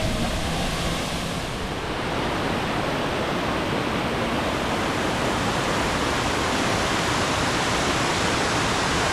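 Steady rush of falling water from Minoo Falls, a waterfall.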